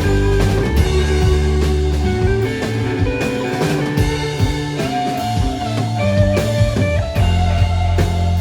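Live rock band playing an instrumental jam: electric guitar lead over bass and drum kit.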